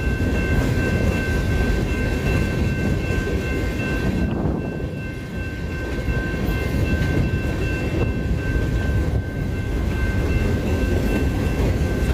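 A long freight train rolling past slowly, its freight cars rumbling on the rails. A steady high-pitched squeal is held over the rumble.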